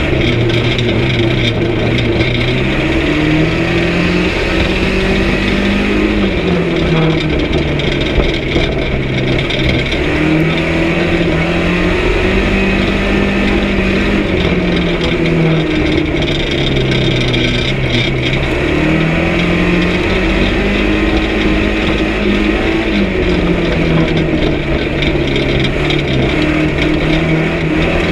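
A banger race car's engine heard from inside the cabin, loud throughout, revving up and dropping back in pitch several times as the driver accelerates and lifts off round the track.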